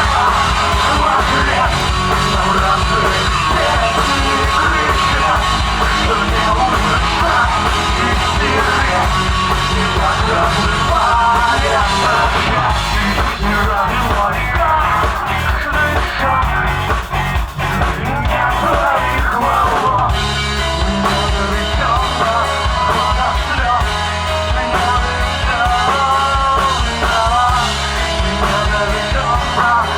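Live alternative rock band playing loudly, with drum kit and singing. The low end of the arrangement shifts about twenty seconds in.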